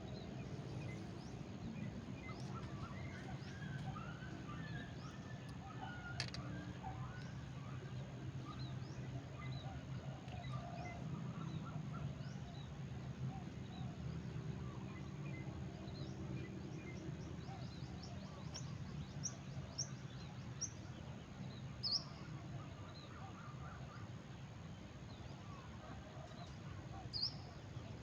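Small birds chirping on and off, short scattered calls over a steady low background hum, with one sharp click about six seconds in.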